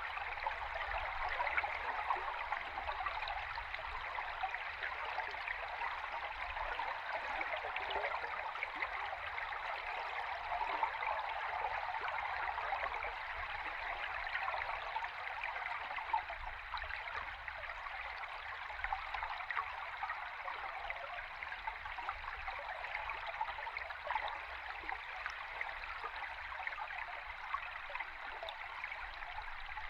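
River stream recorded underwater: a steady rush of bubbling and gurgling water over a low rumble.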